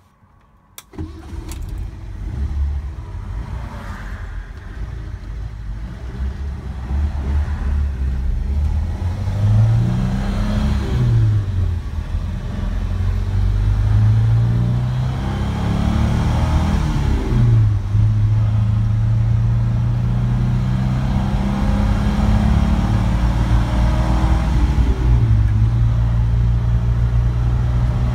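1967 Alfa Romeo Giulia TI's 1.3-litre twin-cam four-cylinder engine, heard from inside the cabin, cranking and catching about a second in with the key, then idling briefly. It pulls away and accelerates through the gears, its pitch rising and then dropping at each of several shifts.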